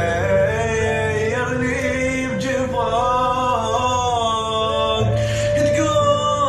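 Male voice singing a slow melodic line of held notes that bend and slide in pitch.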